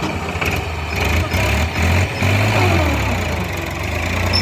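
Heavy diesel engine running steadily with a low drone, a little louder in the middle.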